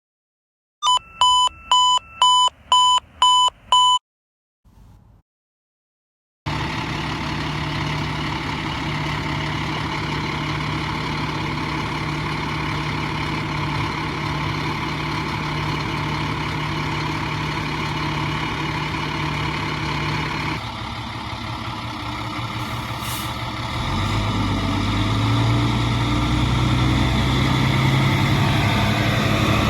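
A run of seven short electronic beeps, about two a second, then a fire truck's diesel engine running steadily. Near the end the engine note rises as the truck pulls away.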